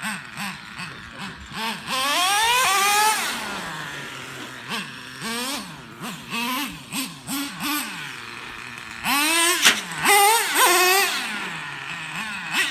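Traxxas T-Maxx 3.3 RC truck's two-stroke nitro engine being revved in short throttle blips. There are two longer high revs, about two seconds in and about nine seconds in, each rising in pitch and then falling back toward idle.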